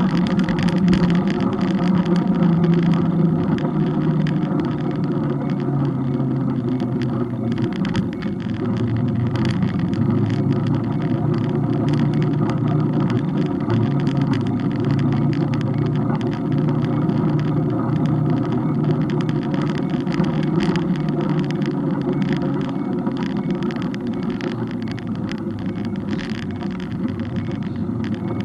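Engine running at a steady speed under road and wind noise, its pitch dropping about eight seconds in and then settling again, with small knocks from bumps in the road.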